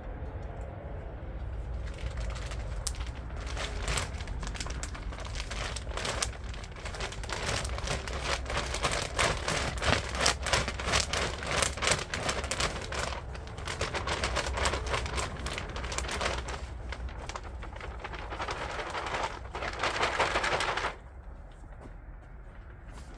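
Dense, rapid crackling of many small hard pieces striking, over a steady low rumble, cutting off suddenly near the end.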